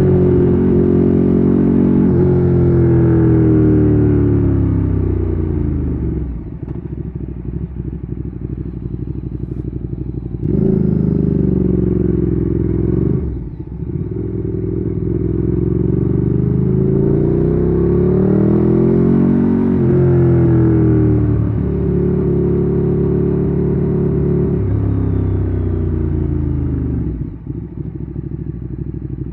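Ducati Streetfighter 848's L-twin engine through a Termignoni exhaust, under way: it pulls in gear, then eases off and falls to a low idle-like beat about six seconds in. It accelerates hard again about ten seconds in with a gear change shortly after, climbs steadily to a peak, drops off, holds a steady cruise, and eases off again near the end.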